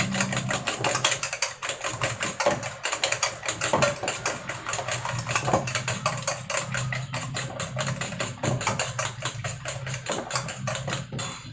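Rapid, even tapping of a kitchen utensil, about six strokes a second, over a steady low hum.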